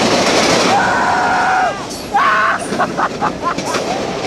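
Train passing close by: a loud, steady rolling roar of the cars with a quick run of wheel clicks near the end, and short high steady tones over it about a second in and again about two seconds in.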